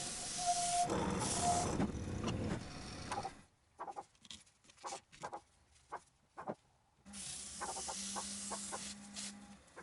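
Wood lathe running while abrasive sanding paste is rubbed onto the spinning piece, giving a hissing friction noise over the motor's hum. It goes quiet about three seconds in, leaving only a few small handling clicks, and the lathe's hum and the rubbing come back at about seven seconds.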